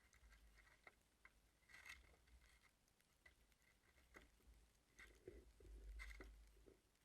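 Near silence, with faint scattered ticks and taps and a faint low rumble that swells briefly near the end.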